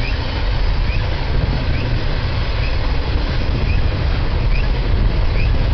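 Double-stack intermodal well cars rolling past, a loud steady rumble of steel wheels on rail, with a faint short high chirp about once a second.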